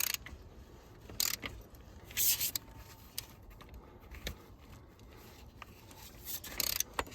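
A few short scrapes and clicks of a hand tool working on metal under the hood, several seconds apart, with one longer rasp about two seconds in.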